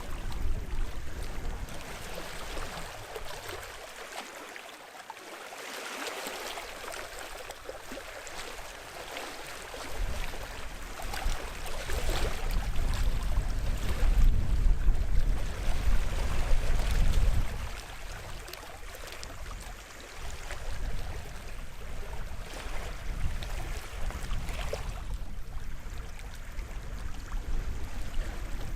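Sea waves washing onto the shore, the hiss of the wash rising and falling in surges every few seconds, loudest about halfway through. A low rumble comes and goes beneath it.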